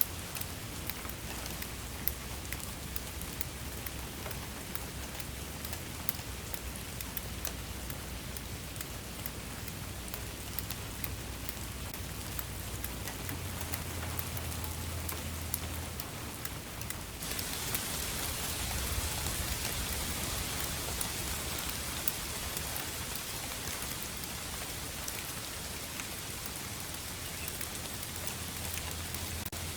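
Steady rain falling on a surface, a continuous hiss dotted with many distinct drop ticks over a low rumble. A little past halfway the rain suddenly turns heavier and the hiss grows louder.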